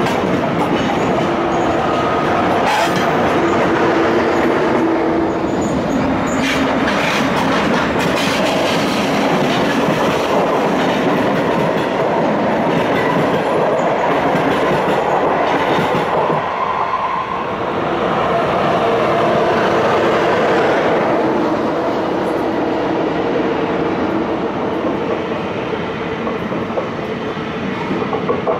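Passenger trains rolling past close below: a Deutsche Bahn ICE and a train of SBB coaches. A continuous rumble of wheels on rail, with a few sharp knocks in the first several seconds and a brief lull about two-thirds of the way through.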